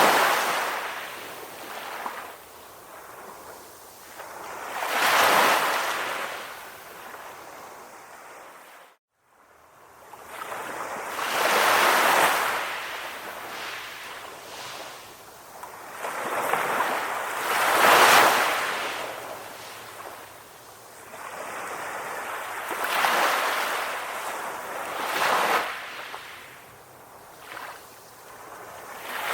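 Calm ocean waves, a surge of surf swelling and fading every five or six seconds. The sound cuts out for a moment about nine seconds in.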